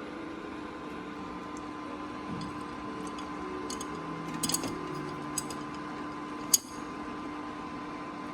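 Steady electrical hum of a running kitchen appliance, with scattered light clicks and one sharp click about six and a half seconds in.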